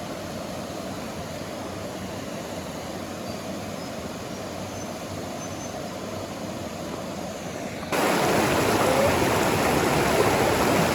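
Running water of a river or creek, a steady rush that suddenly becomes louder and brighter about eight seconds in.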